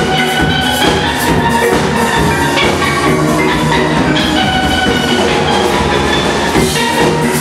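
Steel-drum band playing live: steel pans ringing out a melody and chords over a steady drum-kit beat.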